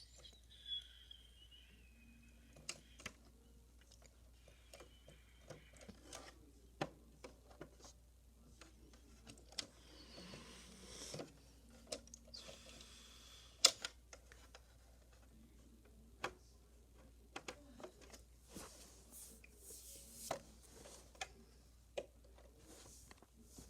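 Hot Wheels die-cast toy cars and a plastic playset being handled: scattered light clicks and knocks, with a few short stretches of noise and one louder sharp knock a little past halfway.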